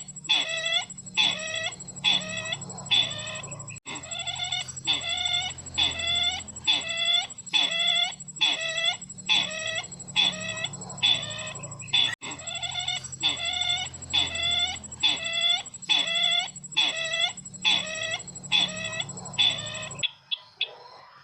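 Recorded sisintar bird call played back as a trapping lure: short, hooked, clucking calls repeated evenly about one and a half times a second over a steady high electronic whine, cutting off abruptly near the end.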